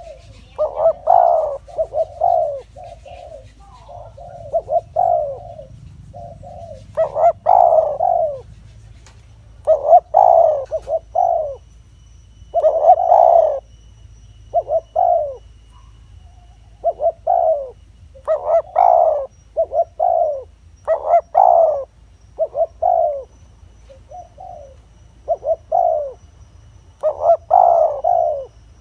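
Spotted dove cooing: short phrases of low, hooting coos, repeated every second or two with brief pauses between them. This is the calling song that keepers play to lure wild doves.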